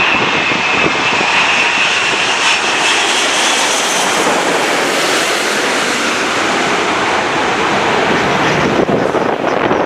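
Wide-body jet airliner passing close, its engines making a loud, steady rush with a high whine that fades over the first few seconds. Wind buffets the microphone near the end.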